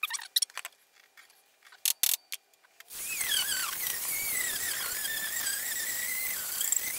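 A tool cutting wood, most likely on the lathe, after a few scattered scrapes and clicks. About three seconds in, steady cutting noise starts with a high, wavering squeal that rises and falls in pitch.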